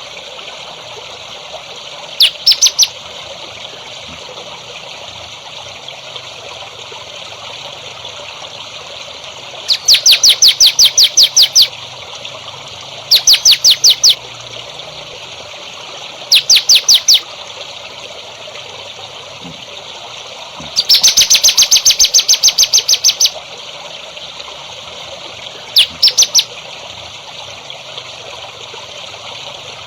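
A songbird sings six bursts of rapid, evenly repeated high chirps, each lasting about half a second to two and a half seconds, with pauses of several seconds between them. Under the song runs a steady trickle of water.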